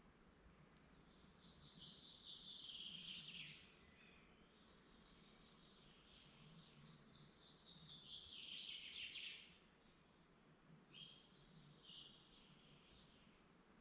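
A songbird sings two phrases of quickly repeated notes that fall in pitch, each lasting about two and a half seconds, a few seconds apart. Short chirps follow near the end, over a faint hush of woodland background.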